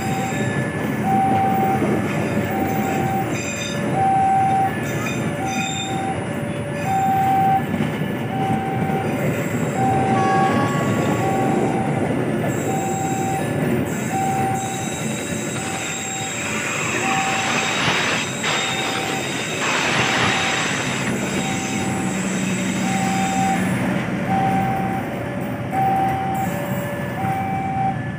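Passenger carriages of an Indonesian Railways (KAI) train rolling past at speed, the wheels rumbling and clattering on the rails, with brighter, harsher wheel noise about two-thirds of the way in. A short electronic tone repeats about once a second throughout.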